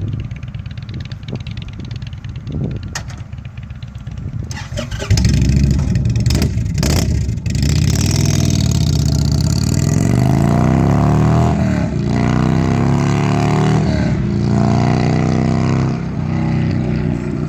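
Indian Chieftain's Thunder Stroke 111 V-twin running through Toxic Pipes Outlaw slip-on mufflers: it runs low at first, then about five seconds in pulls away loudly, the pitch climbing and dropping several times as it accelerates through the gears, easing off near the end.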